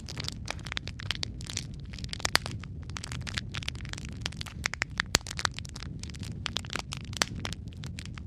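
Wood fire crackling in a fireplace: many irregular sharp pops and snaps over a steady low rumble of the flames, with a few louder pops about two and five seconds in.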